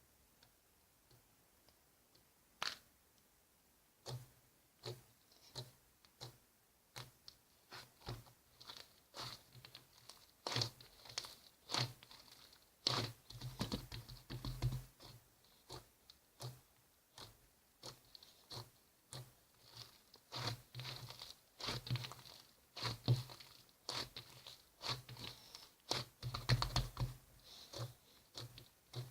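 Close eating sounds: irregular crunching and chewing with small clicks, sparse at first and growing busier and louder after a few seconds.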